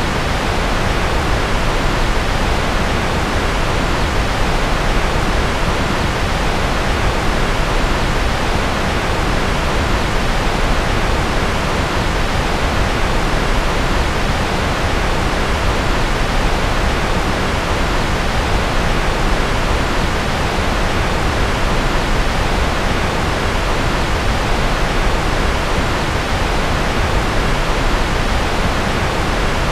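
Steady generated white noise: an even, unchanging hiss that is fuller in the low and middle range than in the highs.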